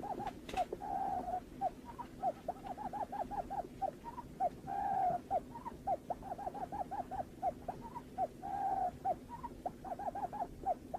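Barred buttonquail calls: a rapid run of short, hooked notes, about five a second, broken about every four seconds by a longer held note.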